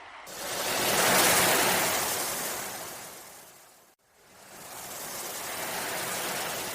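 Ocean waves washing in twice: a loud wash that swells quickly and fades away over about three seconds, then a softer one that rises and ebbs.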